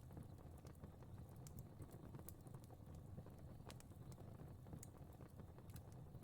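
Fire crackling softly: a steady low rumble of burning with irregular sharp pops and snaps, several a second at times.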